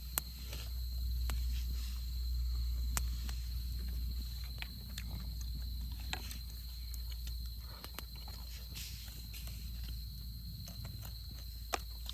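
Wood campfire crackling: scattered sharp pops and snaps at uneven intervals over a steady low rumble.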